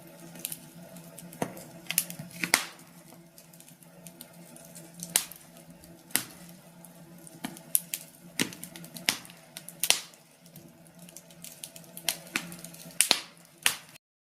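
Wood fire crackling in a fireplace: irregular sharp pops and snaps over a faint low hum. It cuts off suddenly near the end.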